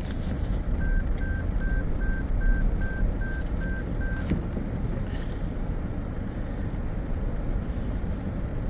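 A four-wheel-drive vehicle's engine running low and steady as it moves off. About a second in, a series of about eight even electronic warning beeps sounds, at two to three a second, and stops about four seconds in.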